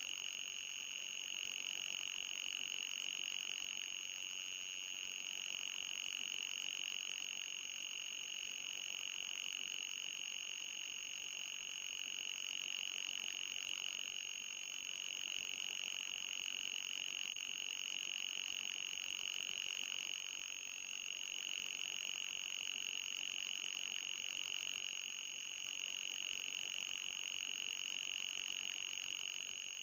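Electronic anti-mosquito repellent tone: a continuous shrill high-pitched sound with a slight waver, with a fainter, thinner tone above it.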